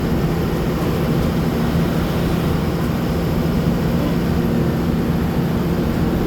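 Steady drone of a moving road vehicle: a constant engine hum over tyre and road rumble, with no change in speed.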